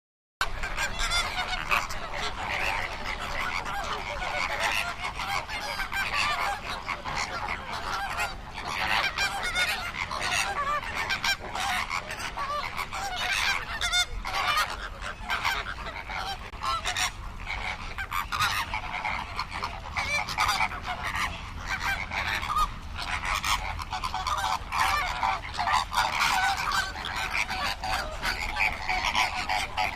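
A flock of flamingos honking, many calls overlapping without a break, starting suddenly about half a second in.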